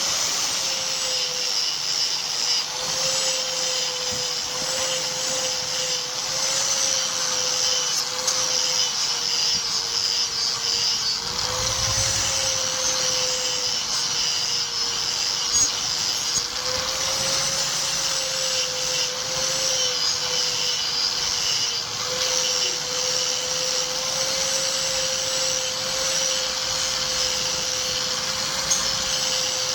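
An electric power tool's motor running continuously with a steady hiss of abrasive rubbing on the workpiece; its pitch wavers slightly as pressure comes and goes.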